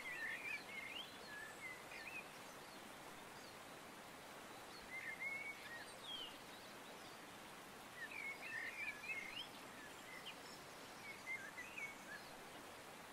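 Faint birdsong: short twittering phrases of quick up-and-down chirps every few seconds, over a steady soft outdoor hiss.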